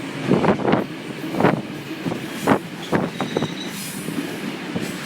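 Flåm Railway train rolling on the rails, with irregular sharp clacks of wheels over rail joints over a steady rumble.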